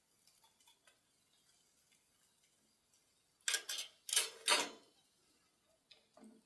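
Faint, scattered ticking crackles from the embers of a wood fire. About three and a half seconds in come three loud, harsh scraping or rustling noises in quick succession.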